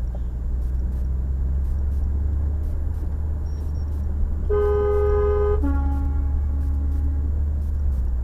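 Steady low rumble of a car driving, heard from inside. About halfway through, a car horn sounds for about a second, followed straight away by a lower-pitched horn tone lasting about a second and a half.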